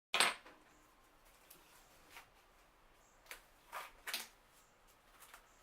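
Kitchen handling noises: a sharp knock right at the start, then a few light taps and clicks spread over the next few seconds.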